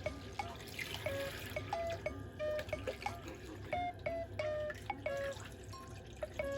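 Water trickling and dripping in a sink, with many short plinking notes scattered irregularly over a steady wash.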